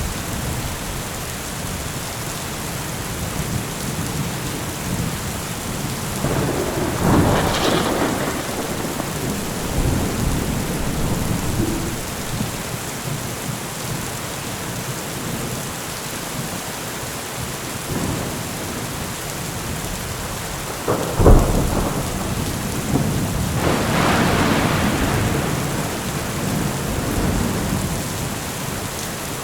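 Steady heavy rain with thunder: a rolling rumble swells and fades early on, then about two-thirds of the way through a sharp thunderclap cracks and rolls on into a long rumble.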